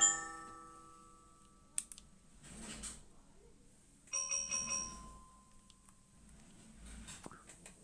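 Angelet XTS 690 electronic keyboard playing a bell-like percussion voice. A ringing note dies away at the start, then about four seconds in a quick few notes are struck and left to ring out. Two faint sharp clicks fall in the gaps.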